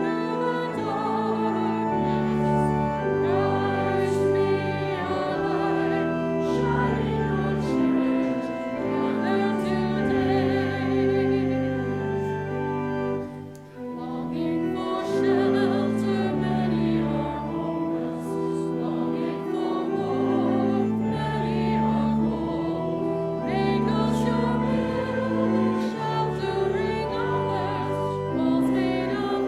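Voices singing a hymn over held chordal accompaniment, chords changing every second or two, with a brief break about halfway through.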